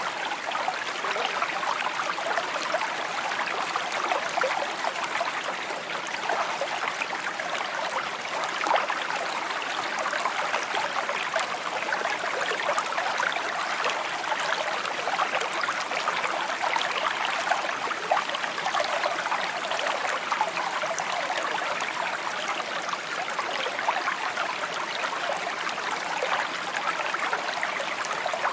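Small stream babbling over stones, a steady trickling and burbling of flowing water.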